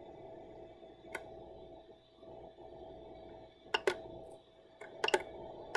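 Steady hum of a Creality 3D printer's fans, with a few sharp clicks, several in quick pairs, from its control knob being worked.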